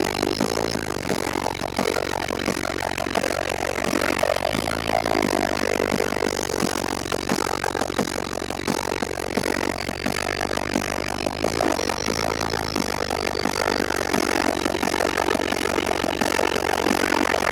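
Car-audio subwoofer systems playing very loud, sustained bass during a loudness competition round. The car bodies rattle and buzz heavily, and the sound comes through the microphone distorted and engine-like.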